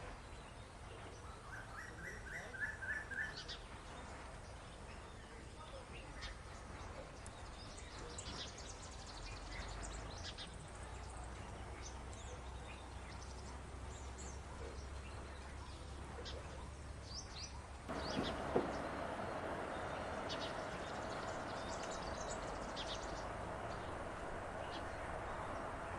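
Wild birds chirping with short scattered calls over a quiet outdoor background, with a brief trill about three seconds in. About two-thirds of the way through, the background changes abruptly to a louder, steady noise with a single thump, while the chirps carry on.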